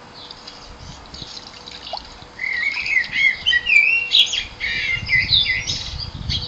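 Common blackbird singing a fast, warbling run of varied notes that starts about two seconds in, with low splashing in the bird bath near the end.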